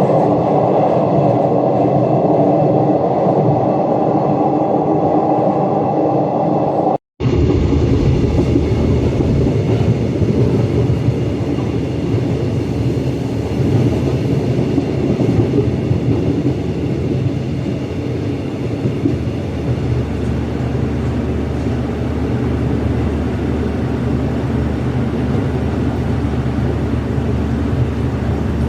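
Train running on the rails, a steady rumble. About seven seconds in it breaks off for an instant, then continues deeper.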